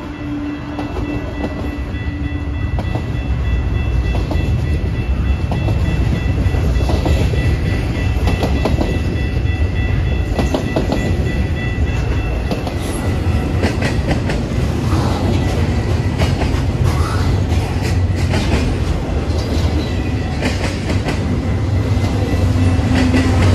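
A train passing close by: a steady low rumble with rapid clicking of wheels over rail joints, growing louder over the first few seconds.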